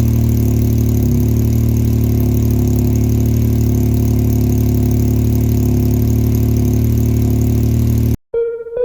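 Yamaha YXZ1000R side-by-side's inline three-cylinder engine running steadily without revving, heard through its DIY exhaust: a modified Alba SBD header, custom B-pipe and Vibrant muffler. It cuts off suddenly near the end.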